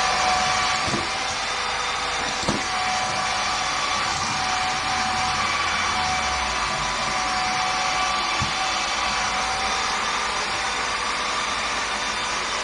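Kitfort vacuum cleaner running steadily with a hissing airflow and a whine, with three brief knocks along the way.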